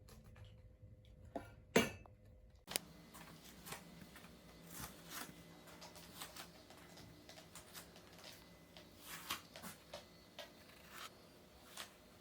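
Kittens playing with toys: scattered light clicks, taps and rattles of small hard toys, with one sharper click just before two seconds in.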